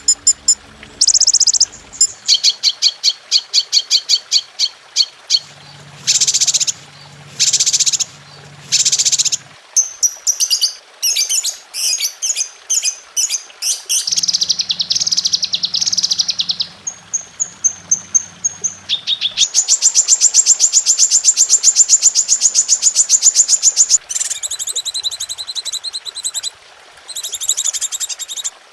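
Recorded songbird calls spliced one after another: loud high chirps, fast rattling trills and buzzy phrases, switching abruptly to a different call every few seconds. A faint low hum sits under some of the segments.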